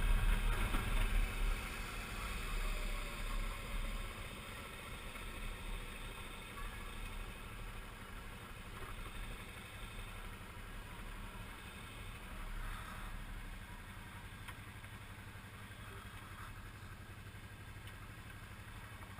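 Suzuki V-Strom 650's V-twin engine running as the motorcycle slows, the wind rush dying away over the first few seconds, then a steady, quieter engine sound at low speed.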